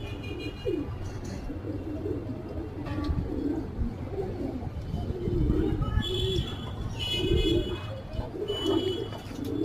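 Domestic pigeons cooing over and over, low burbling coos one after another, with a few higher chirps in the second half.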